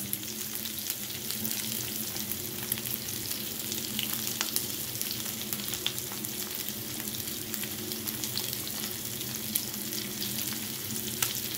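Beef chunks frying in hot oil in a pan: a steady sizzle dotted with small crackles and pops, over a faint steady low hum.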